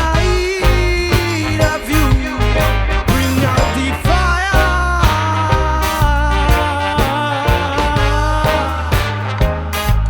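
Dub reggae band playing an instrumental passage, with a heavy bass line, regular sharp drum hits and a held melody line entering about four seconds in.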